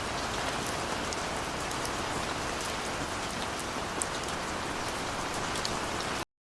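Steady rain falling on a surface, with scattered sharp drop ticks over an even hiss; it cuts off suddenly near the end.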